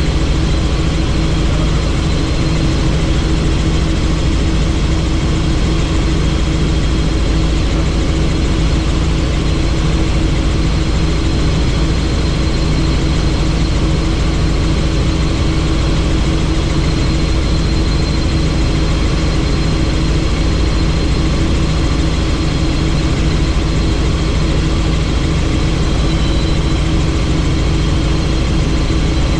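Helicopter in flight, heard from aboard with the doors off: a steady, loud drone of rotor and engine with a thin high whine above it.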